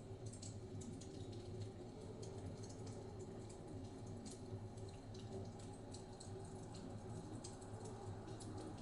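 Wood fire crackling in a fireplace: many small, sharp pops scattered irregularly over a low, steady rumble.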